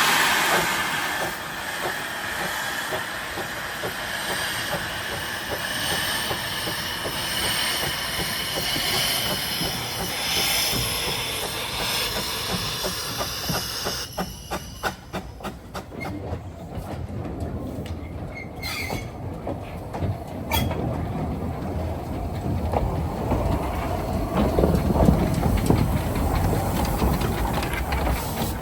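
A Ffestiniog Railway narrow-gauge train running, with its wheels squealing on the rails for about the first half. Then comes a fast run of clicks over the rail joints under a growing low rumble.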